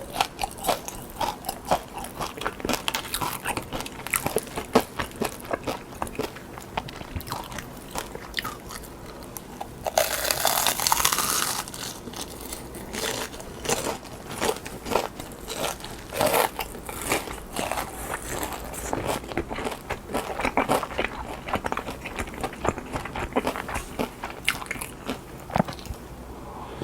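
Close-miked chewing and crunching of battered fried shrimp, with many small crackling bites throughout. About ten seconds in there is a louder rushing noise lasting about two seconds.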